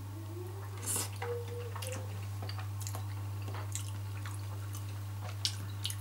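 Wet chewing and lip smacks of a person eating soft boiled pork knuckle, a string of short irregular clicks, over a steady low hum.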